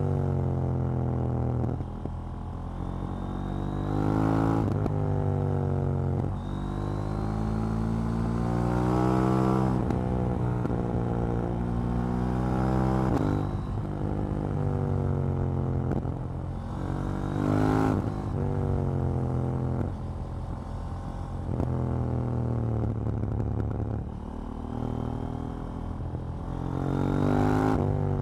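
KTM 790 Duke's parallel-twin engine under hard acceleration, its pitch climbing and then dropping sharply at each gear change, over and over, with short sharp cracks at some of the shifts.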